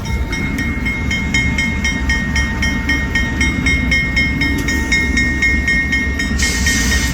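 CSX freight locomotive moving slowly during switching: a steady low engine rumble with a high steady ringing tone and regular clicking several times a second, and a burst of hiss near the end.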